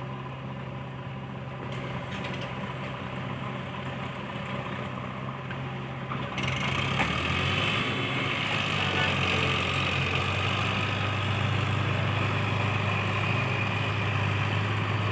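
Heavy diesel machine engine running steadily, then about six seconds in its pitch shifts and it grows louder, with a higher whine added on top.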